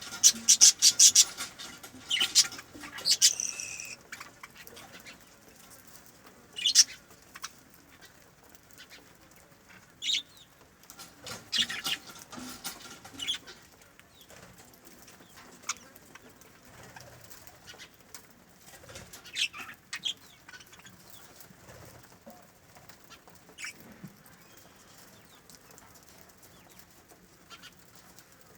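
Birds flapping their wings in quick flurries of sharp strokes. They come thickest in the first few seconds, then in scattered short bursts with quiet gaps between.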